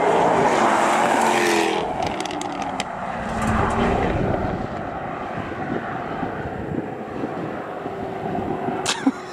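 Jaguar F-Type R's supercharged 5.0-litre V8 accelerating hard past at close range. The engine note rises and falls as it goes by, then surges again with a few sharp exhaust cracks about two to three seconds in, and fades as the car pulls away up the road. It is loud enough to hear for miles.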